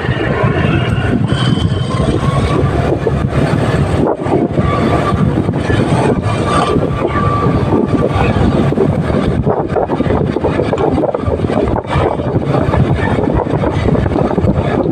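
Motorcycle on the move, its engine and the rush of riding making a steady, loud rumble.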